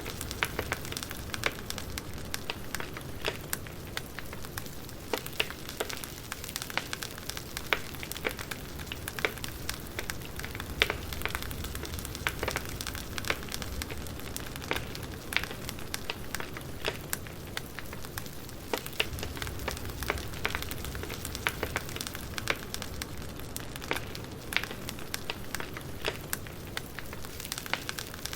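Burning firewood crackling: frequent, irregular sharp pops and snaps over a steady low rumble of the fire.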